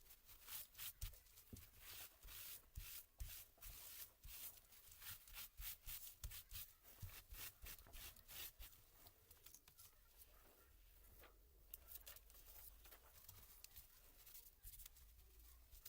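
Faint scratching, rubbing and light clicks of small plastic keyboard parts being worked by hand during laptop keyboard disassembly. The strokes come quickly and irregularly for the first half, then die down to a soft rustle.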